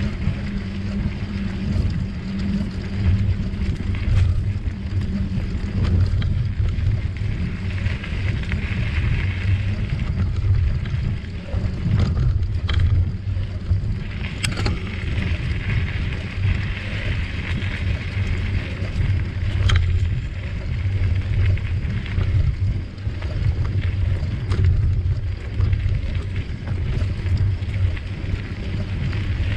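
Bicycle ride heard from a camera on the move: steady low rumble of wind on the microphone and tyres rolling on the trail, with a few sharp clicks and rattles along the way.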